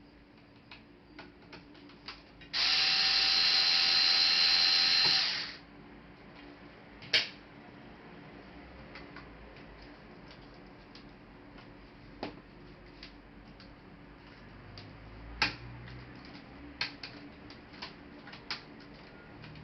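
A small power tool motor runs steadily for about three seconds, starting and stopping abruptly. Scattered light clicks and taps come before and after it.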